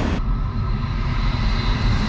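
Steady low rumble of a moving train. A broad hiss cuts off abruptly just after the start, leaving the deep rumble.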